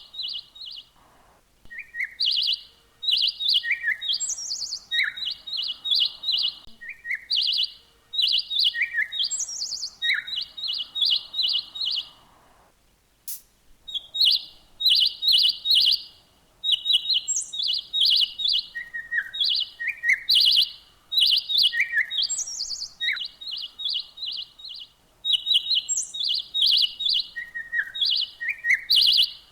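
Songbird chirping in quick runs of high notes, phrase after phrase, with brief pauses about a second in and again a little before halfway.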